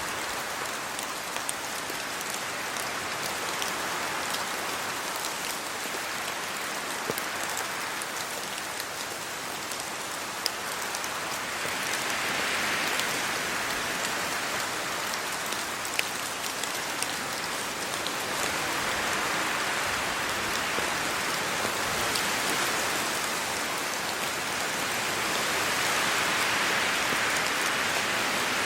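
Steady rain falling on the ground and trees, with scattered sharp drop ticks close by. The rain swells a little louder twice, about halfway through and near the end.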